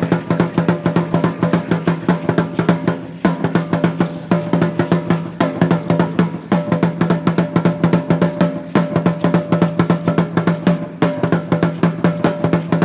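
Drumming for an Aztec-Chichimeca danza: a large ceremonial drum, the huehuetl, beaten in a fast, steady rhythm with a ringing low tone, the pattern pausing briefly every few seconds.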